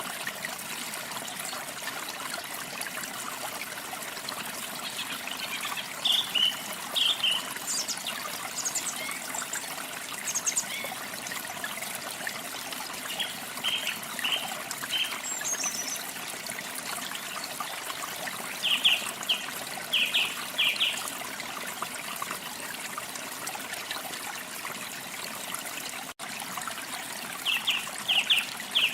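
Running water trickling steadily, with small songbirds chirping over it in short bursts of two to four quick notes every few seconds.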